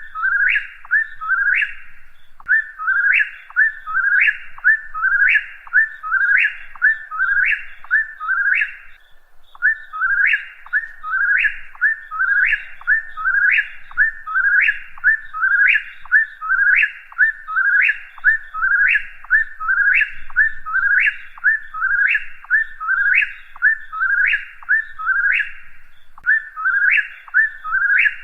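Whip-poor-will singing its whistled 'whip-poor-will' song over and over, about one and a half phrases a second, with a few brief pauses.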